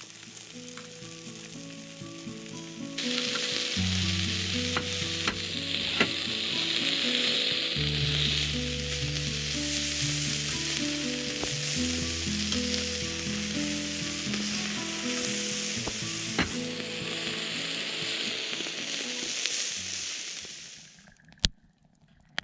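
Food sizzling as it fries, the sizzle growing louder about three seconds in and fading out near the end, with a couple of sharp clicks. Background music with a simple melody plays throughout.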